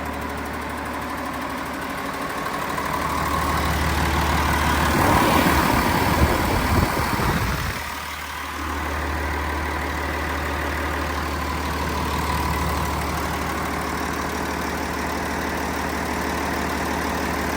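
Cummins ISL 8.9-litre inline-six diesel engine running, brought up in speed and louder from about two seconds in, then dropping back near eight seconds and settling to a steady idle.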